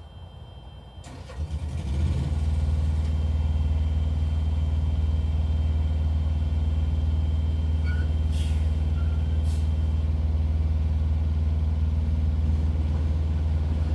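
Diesel truck engine idling with a steady low rumble, coming up about one to two seconds in.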